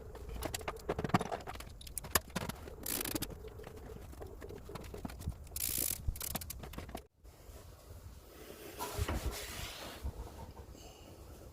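Scattered clicks, knocks and rustles of hand work with tools and parts on an engine, with a short break about seven seconds in.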